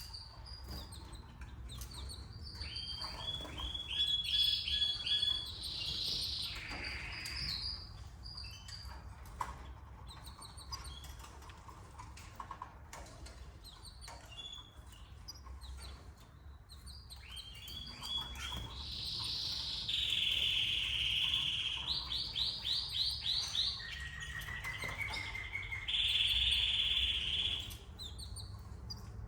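Canary singing in two bouts of rapid trills and held whistled notes, the first a few seconds in and the longer one from about two-thirds of the way through to near the end.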